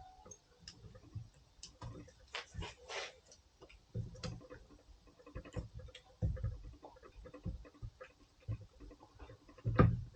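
Irregular metallic clicks, knocks and brief scrapes of hand tools and parts being worked on a Range Rover L322's front CV axle during removal, with a louder knock near the end.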